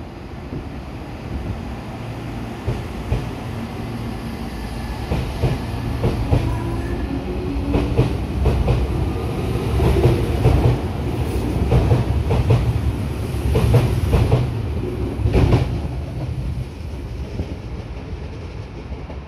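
Meitetsu 100 series electric train pulling out of the station. The rumble of the cars and the clatter of wheels over rail joints build as it gathers speed, are loudest through the middle, then fade as the last car passes.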